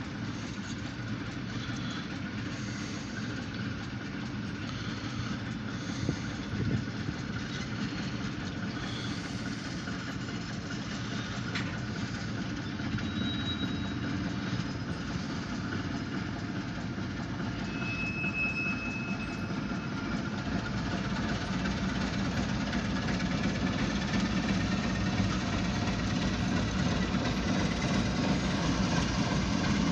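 Freight train of covered grain hopper cars rolling past behind a diesel switcher: a steady rumble of wheels on rail that grows gradually louder, with a couple of brief faint high squeals from the wheels. Heard from inside a vehicle.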